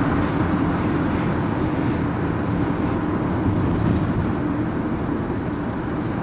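Steady engine and road noise heard inside a vehicle cab while driving, a low even rumble.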